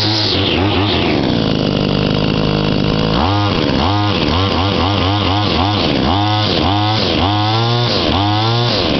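Victa Tornado Plus 26cc two-stroke line trimmer engine running, steady for the first few seconds, then revved up and down over and over, about one throttle blip every two-thirds of a second, from about three seconds in.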